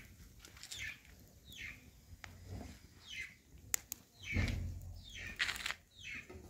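A bird chirping, a short call falling in pitch repeated about once a second. A brief low rumble comes a little past the middle.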